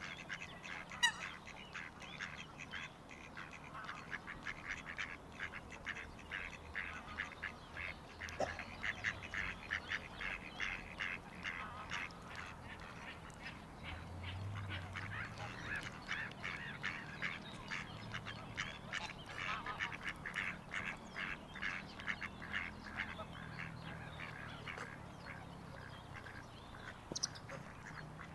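A flock of waterfowl calling: a continuous chatter of many short, rapid calls.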